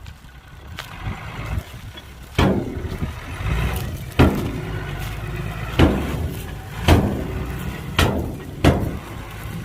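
Heavy machinery engine running low and steady, with six loud metallic bangs and thuds, the first about two and a half seconds in and then roughly one a second, each ringing out briefly.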